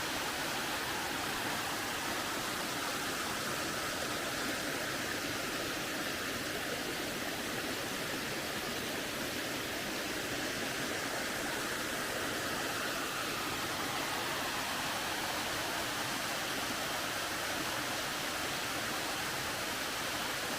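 Small waterfall's water falling and splashing steadily, a constant, even rushing hiss.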